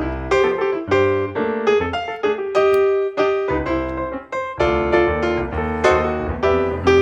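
Background piano music, a steady flow of melody and chords at a lively pace.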